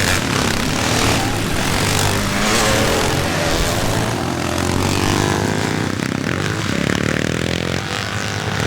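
Several classic motocross bikes racing with engines at full throttle, a layered, unsteady drone of exhausts. In the second half, engine notes rise in pitch as bikes accelerate hard, one after another.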